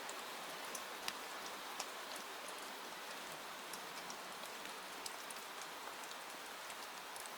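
Steady rain hiss with scattered sharp ticks of individual drops striking a surface.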